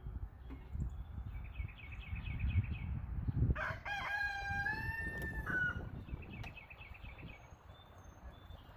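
A rooster crows once, one long call of about two seconds near the middle, over a low rumble of wind on the microphone. Small birds chirp faintly before and after it.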